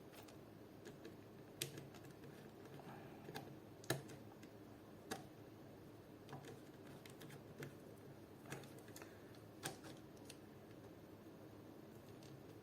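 Faint, scattered clicks and taps, about eight of them a second or so apart, of an airsoft AK's gearbox, hop-up chamber and small screws being handled and fitted together.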